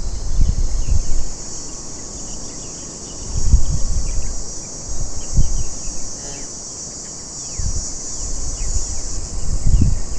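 Steady high-pitched drone of insects, with irregular low gusts of wind rumbling on the microphone and a few faint bird chirps.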